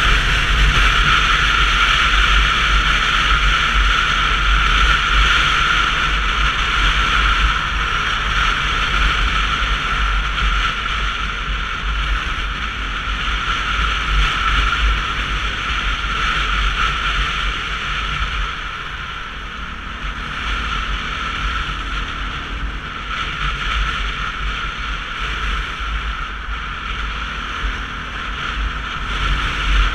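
Wind rushing over the camera and road noise from a Sinnis Terrain 125cc motorcycle on the move, a steady heavy rumble that eases slightly about two-thirds through.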